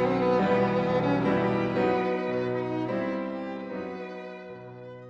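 Background music of bowed strings, violin and cello, playing slow held notes and fading out near the end.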